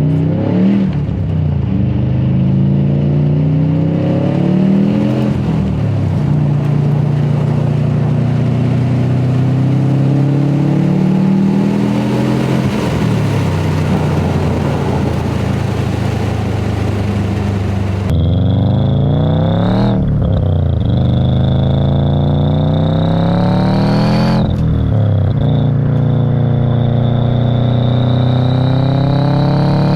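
Turbocharged car accelerating hard through the gears: the engine note climbs and drops at about five upshifts. In the second half a thin high whistle rides on top and rises and falls with the revs: the turbo whistle the exhaust modification was meant to bring out.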